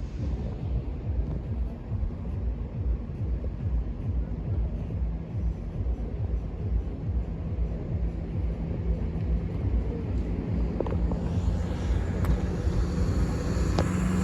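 Low rumble of an approaching diesel train, with a steady engine tone coming in about halfway and growing louder toward the end.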